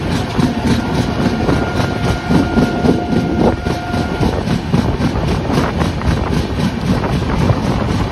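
Passenger express train running at speed: a steady rumble of the coach and wheels on the track with rushing air. A steady tone sounds from about half a second in to about four seconds.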